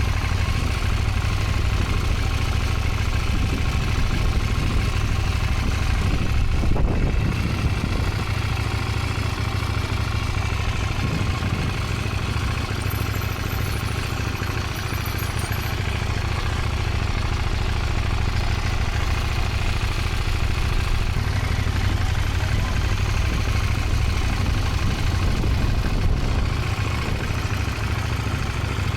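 Motorcycle engine running steadily at low revs, with a brief slight rise about seven seconds in.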